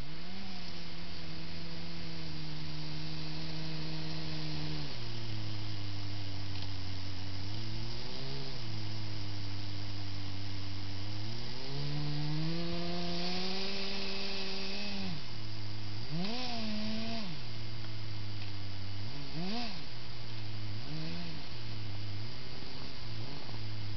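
Electric drive motors of a Kyosho Blizzard radio-controlled snow groomer whining over a steady low hum. The pitch rises and falls with the throttle: it is held higher for a few seconds near the start and again around the middle, then comes in short quick blips toward the end.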